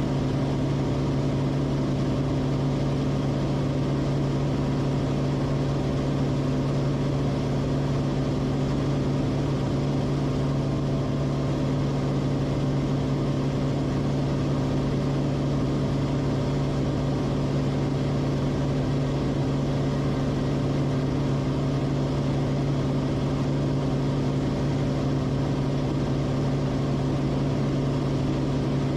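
Cessna Corvalis TTX's turbocharged six-cylinder engine and propeller droning steadily in flight, with a constant low hum.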